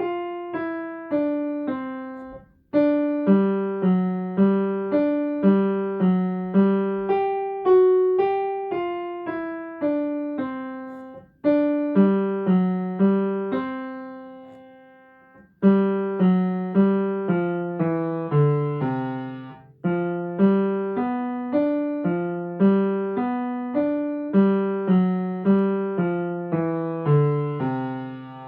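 Piano playing a short ragtime-style exercise at regular tempo, two hands moving in quick repeated note patterns. There are a few short breaks between phrases, with one held note fading out about halfway.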